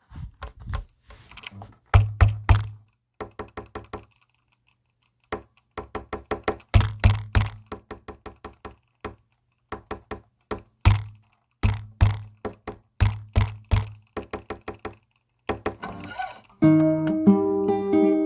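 Rhythmic percussive knocking: quick groups of sharp thunks with short pauses between them, stopping completely for about a second after four seconds. An acoustic guitar starts strumming near the end.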